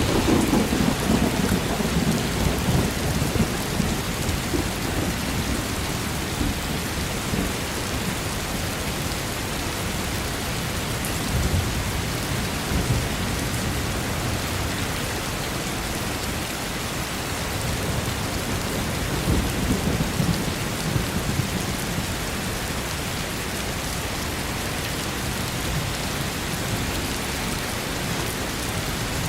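Steady rain falling, with thunder rumbling low just at the start and again about two-thirds of the way through.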